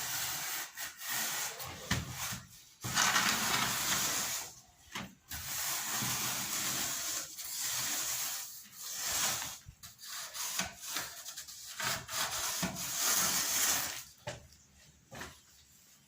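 Repeated rasping strokes of something being rubbed or scraped against a hard surface, each about one to two seconds long, with short pauses between them.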